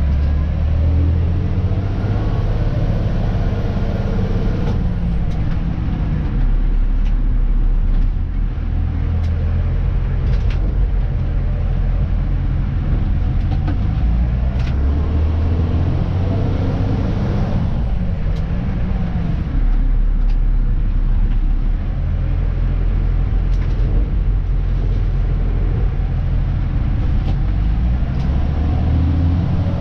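Diesel engine of a Dennis Elite 2 refuse truck heard from inside the cab, running steadily with its pitch rising and falling as the truck moves, with scattered sharp clicks and air-brake sounds.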